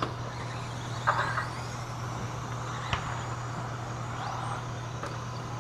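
Radio-controlled stadium trucks running around the race track, with faint rising motor whines over a steady low hum. A sharp click comes about three seconds in.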